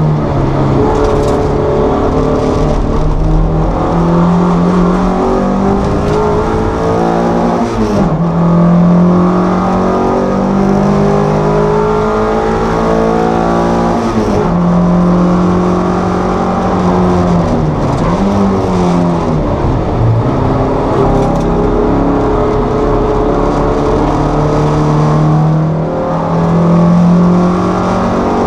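Toyota MR2 race car's engine at racing speed, heard from inside the cabin. It runs loudly throughout and its pitch rises and falls with the revs, dipping lowest about twenty seconds in before climbing again.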